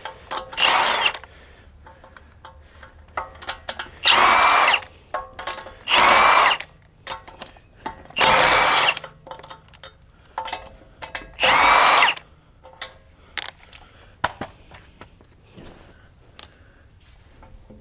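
Power tool, most likely a cordless impact wrench, run in five short bursts on the wheel bolts of a BMW F80 M3, with small metal clinks between bursts.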